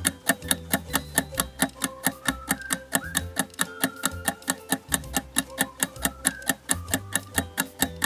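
Quiz countdown music: a steady clock-like ticking at about four to five ticks a second over a bouncy bass line and a short repeating melody.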